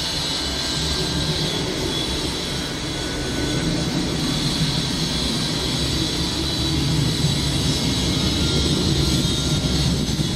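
Jet engines of a Boeing 737-800 (CFM56-7B turbofans) running at takeoff thrust: a steady, loud jet noise with a low rumble, growing a little louder as it goes.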